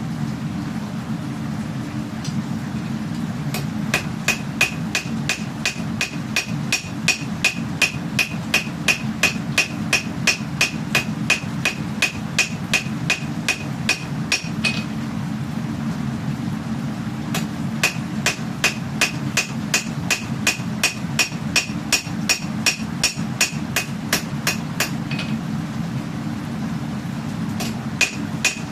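Hammer blows on steel while forging a katana blade, at about three ringing strikes a second. They come in two long runs with a pause between, and a few more near the end. A steady low hum runs underneath.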